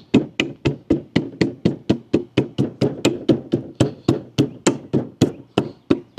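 Rapid, steady hammer taps, about four a second, knocking the wooden parts of a drawer together at the joints to seat a tight tenon fit.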